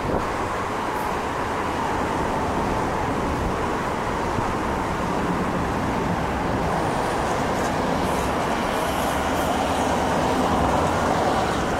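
Electric multiple-unit passenger trains running on the tracks below: a steady rumble of wheels on rail that swells a little near the end.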